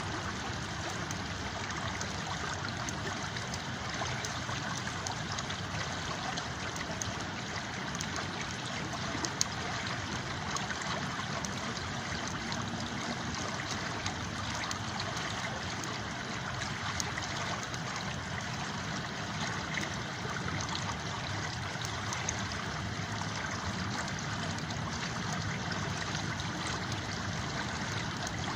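River water flowing steadily, with scattered sharp crackles from a campfire, the loudest about nine seconds in.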